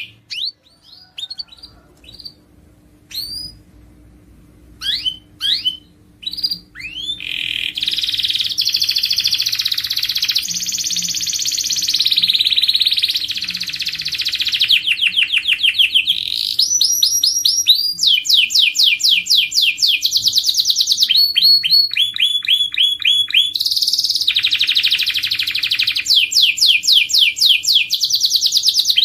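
Domestic canary singing: a few scattered short chirps at first, then from about seven seconds in a continuous song of rapid trills, each phrase a fast run of repeated sweeping notes before switching to the next.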